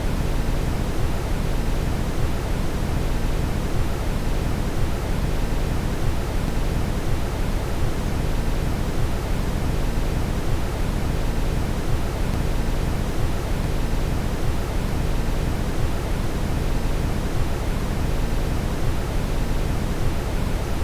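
Steady brown noise: an even, deep rushing hiss, strongest in the low end, unchanging throughout.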